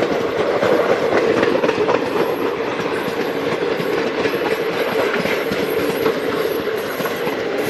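A train passing close by at speed, its wheels clattering over the rail joints with a steady, dense rumble.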